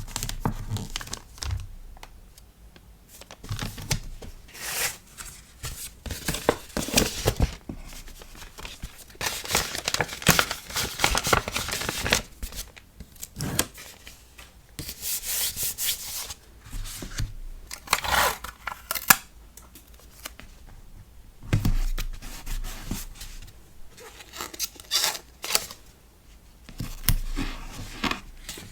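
Hands packing a sticker order: paper and plastic packaging crinkling and rustling, with several longer tearing or peeling strokes and scattered small clicks and taps.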